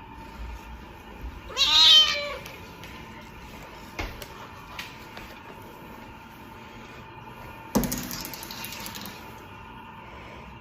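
A domestic cat meowing once, a single call that rises and falls in pitch, about two seconds in. A sharp click follows later, then a sudden knock with a brief rustling tail near the end, over a faint steady hum.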